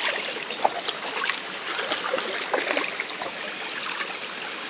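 Shallow mountain stream running, a steady rush of water with a few short splashes.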